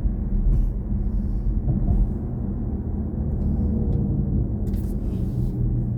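Steady low road and tyre rumble inside the cabin of a BMW i4 M50 electric car while driving, with no engine note, and a brief hiss about five seconds in.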